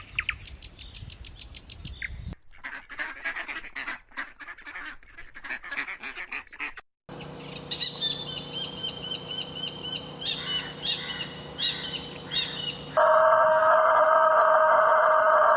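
Bird calls and songs in a run of short clips that cut from one bird to another every few seconds: a fast trill of high notes, then busy chirping, then repeated calls, and near the end a louder, sustained call.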